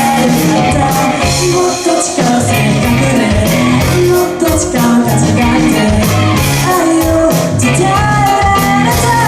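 Live rock band playing a J-pop song, with drums keeping a steady beat under bass, guitars and keyboards, and a lead singer over them.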